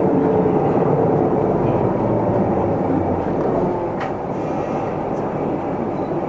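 Isuzu Erga Mio city bus under way, heard from inside the cabin: the diesel engine and drivetrain drone steadily, their whine sinking slightly in pitch as the bus eases off, with a single light click about four seconds in.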